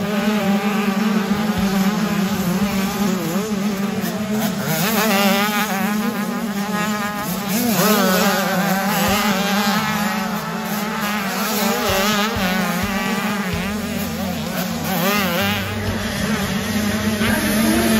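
Several 85cc two-stroke motocross bikes racing, their engines buzzing and revving up and down continuously as the throttles open and close.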